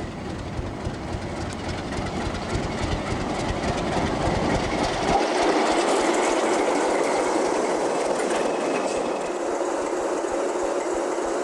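A train running on rails, its wheels clicking over the rail joints, growing louder over the first few seconds.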